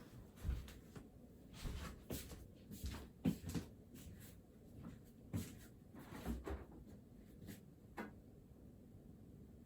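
Desk handling noises: irregular taps, knocks and rustles, as of a pen, book and paper being moved and written with, the loudest knock about three seconds in.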